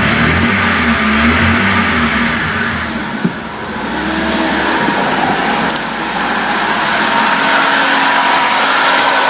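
Mercedes-Benz M111 2.0-litre four-cylinder petrol engine running just after being started, settling toward idle, with a short sharp click about three seconds in.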